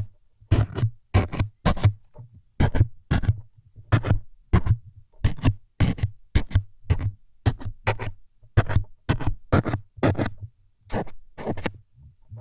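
Short scraping jabs close to the microphone, about two a second and often paired: ASMR trigger sounds imitating needles being stuck in again and again.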